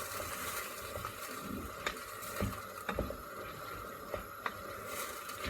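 Pot of vegetables and frozen green peas simmering on a low heat: a quiet steady hiss with scattered faint pops and clicks.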